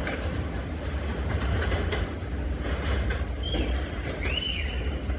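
New York City Subway L train running on the rails, with a steady low rumble and the wheels clicking over rail joints. Two short high squeals come about three and a half and four and a half seconds in.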